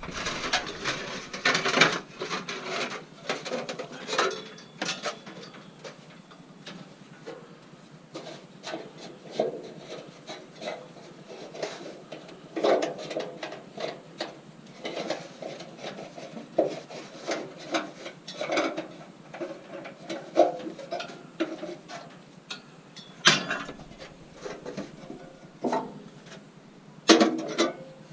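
Scrap metal being handled and sorted: irregular clanks, knocks and scrapes of metal pieces against each other, some ringing briefly, with a louder cluster of clanks near the end.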